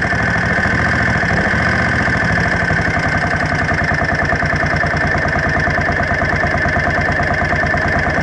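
1979 Honda CX500's liquid-cooled V-twin idling steadily, with an even, fast pulse close to the microphone.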